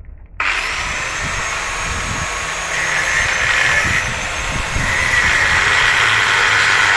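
Angle grinder spinning up about half a second in with a rising high whine, then grinding steadily on metal. It gets a little louder as it bites harder, about three and five seconds in.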